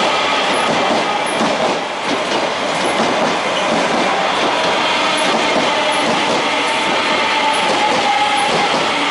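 Línea Roca electric multiple-unit commuter train passing close by: a steady rush of wheels on the rails with clickety-clack over the joints and thin whining tones above it. The sound dips briefly about two seconds in.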